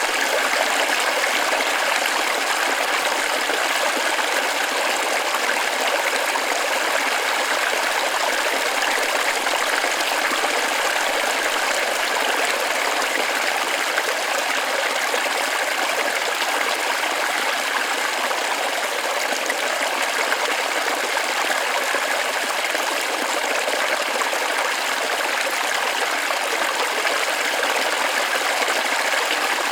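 Waterfall in a forest stream, its water rushing in a steady, unchanging wash.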